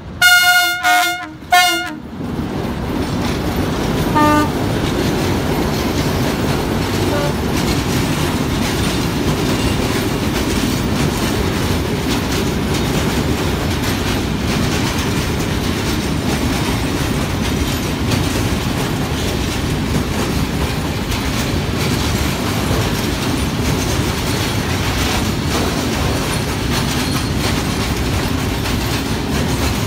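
Heavy freight train passing: the locomotive's horn sounds two loud blasts in the first two seconds, then the train runs by with a steady rumble and wheel clatter over rail joints.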